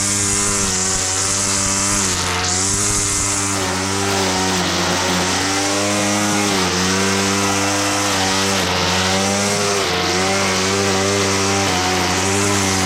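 Lawnmower engine running hard while cutting grass, its pitch dipping and recovering every second or two as it takes on load.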